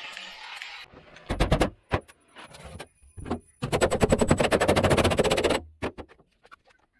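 A metalworking tool on sheet metal, giving rapid, evenly spaced rattling bursts: a short burst about a second in, then a longer one of about two seconds, with scattered clicks between.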